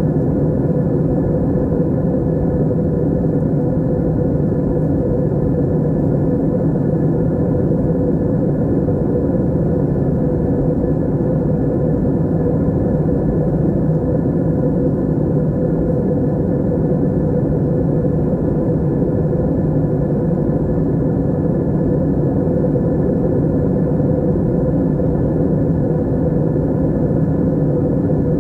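Airliner cabin noise in flight: a steady, unchanging low drone of engines and airflow with a faint hum running through it.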